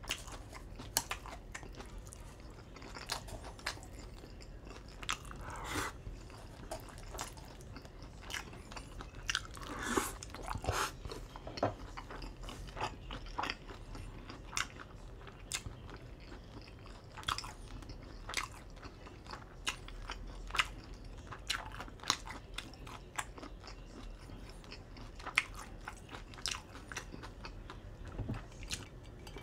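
A person chewing a mouthful of food close to the microphone: irregular soft clicks and crunches of chewing, with a few louder bites.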